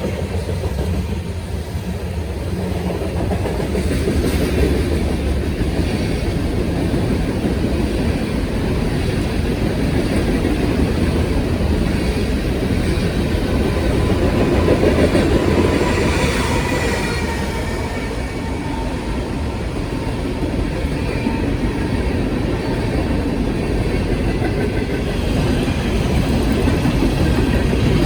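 A train passing on the line: a steady rumble of steel wheels rolling on the rails and cars rattling, swelling a little mid-way.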